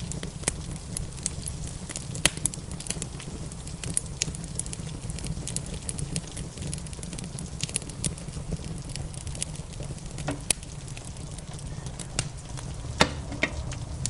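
Wood fire crackling: a steady run of small snaps with a few louder pops, about two, ten and thirteen seconds in, over a steady low rumble.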